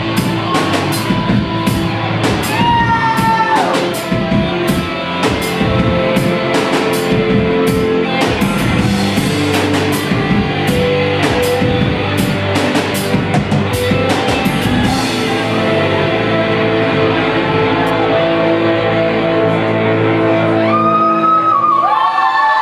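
Live rock band playing, with drum kit and guitar; the regular cymbal hits stop about fifteen seconds in while held chords ring on.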